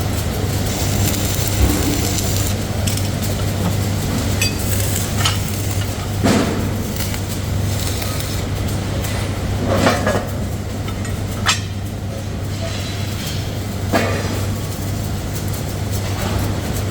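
Factory machinery running with a steady hum, with an occasional sharp clank of metal parts every few seconds.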